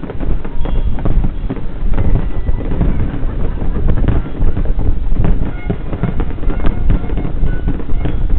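Fireworks display: a steady rumble of launches and bursts with many sharp bangs and crackles throughout, heard together with music.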